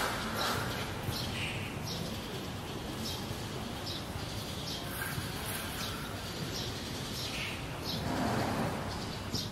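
Outdoor ambience: birds chirping now and then over a steady background hiss.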